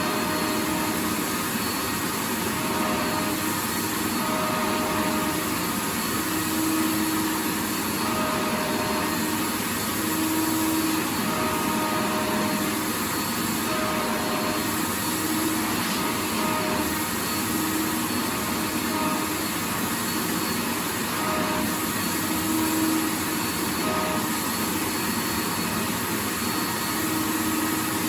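Vacuum cleaner running continuously: a steady rush of air with a motor whine that comes and goes in short tones every second or two.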